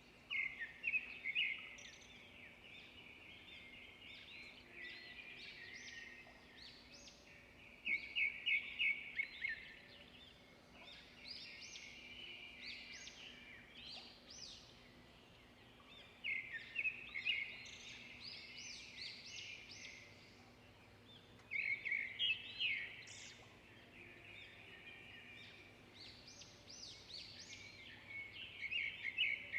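Songbirds singing and chirping, with louder bursts of quick repeated notes about every seven seconds over continuous softer twittering.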